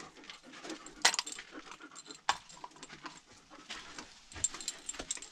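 A dog breathing and moving about at close range, with irregular small clicks and knocks scattered through, the sharpest about a second in.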